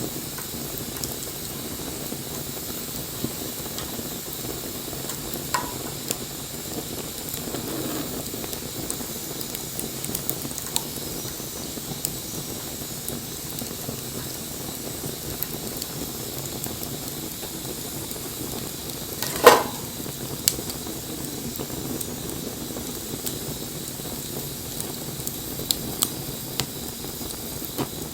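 Wood fire burning: a steady hiss with scattered crackles and sharp pops, the loudest pop about two-thirds of the way through.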